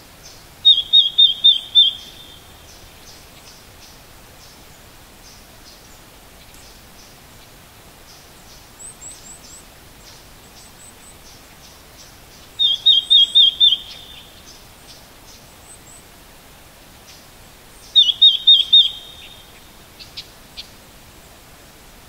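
Red-billed leiothrix calling: three runs of five or six quick, identical notes, each run about a second long, the first just after the start, the next about halfway through and the last a few seconds later. Fainter, higher chips sound between the runs over a steady low hiss.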